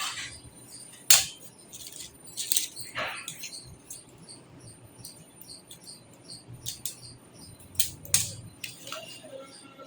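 Scattered clicks, taps and light clinks at irregular moments, the handling of computer parts and small hardware during PC assembly.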